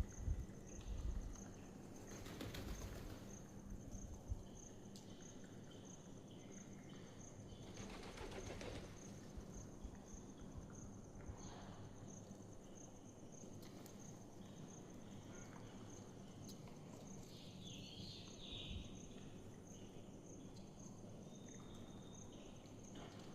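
Faint outdoor ambience: a high insect chirp repeating evenly about twice a second, with a few brief bird calls and soft rustles.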